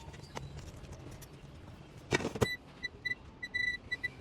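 Air fryer's electronic control panel beeping: a run of short, high beeps, one held a little longer, right after two loud knocks about two seconds in.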